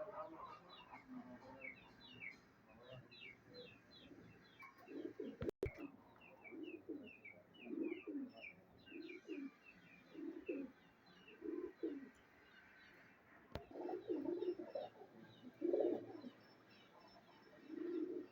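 Pigeons cooing, with low coos repeating about once a second from about a third of the way in, over rapid high-pitched bird chirps that continue throughout.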